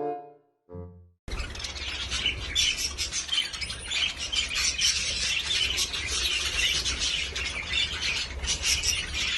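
Parrots chattering, chirping and squawking in a dense, continuous racket that starts abruptly about a second in, with a low hum underneath.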